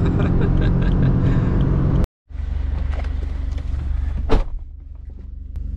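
Subaru Forester tS STI's turbocharged boxer engine running steadily, heard from inside the cabin. The sound cuts out for a moment about two seconds in, and a single sharp click comes a little after four seconds.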